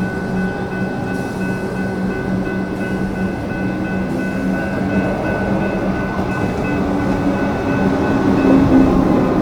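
Melbourne suburban electric multiple-unit train running through the station: a steady mix of rail noise and humming tones, with a motor-like tone growing louder over the last couple of seconds.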